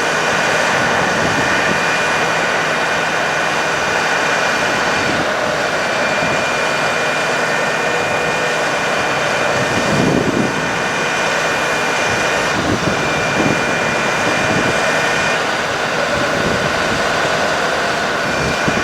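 Altec AT37G bucket truck's PTO-driven hydraulic system running while the boom is worked: a steady mechanical whine over the truck's running engine. A thin high tone drops out and comes back several times, with a brief surge about ten seconds in.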